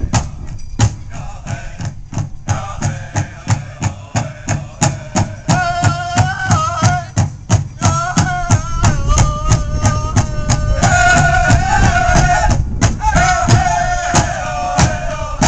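Powwow drum and singers: a big drum struck in a steady beat about twice a second, with a group of voices singing a high, chanted song over it from a few seconds in.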